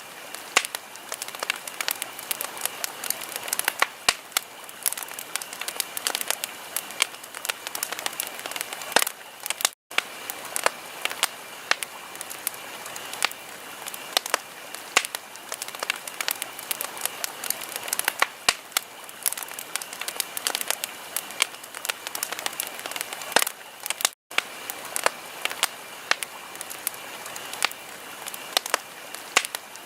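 Wood fire crackling and popping in a fireplace: a dense, irregular run of sharp snaps over a soft steady hiss. The sound drops out to silence for an instant twice, about ten seconds in and again near twenty-four seconds.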